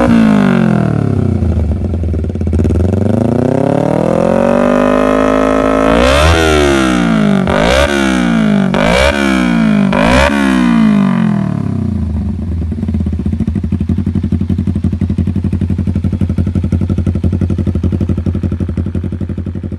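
Kawasaki Ninja 250 motorcycle engine revved through an aftermarket racing exhaust: the revs fall away, climb again, then a series of quick throttle blips, after which it settles into a steady idle.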